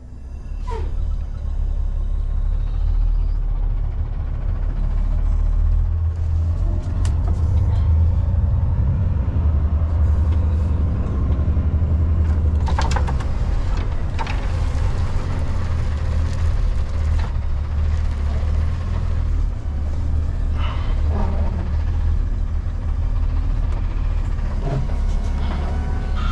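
Semi-truck diesel engine running steadily at low speed while backing a trailer into a dock door, with a few brief sharp sounds now and then.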